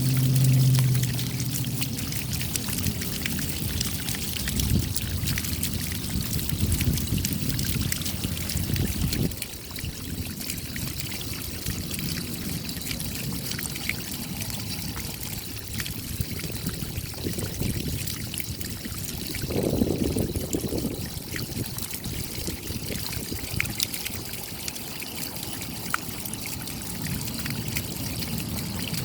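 Steady rain with water pouring and trickling as runoff, full of fine drop ticks, swelling briefly about two-thirds of the way through. A short low hum sounds at the very start.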